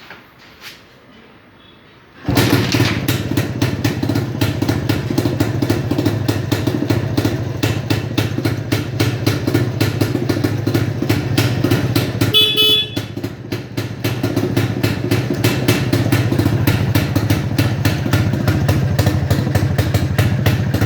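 Restored 1964 Jawa 250's two-stroke single-cylinder engine kick-started, catching on the first kick about two seconds in, then running with a fast, even beat. The horn sounds briefly about midway, as the engine note dips.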